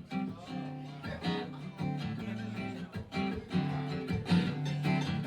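Acoustic guitar strumming chords, starting with a sudden rise in loudness right at the start, with steady low notes under the strums.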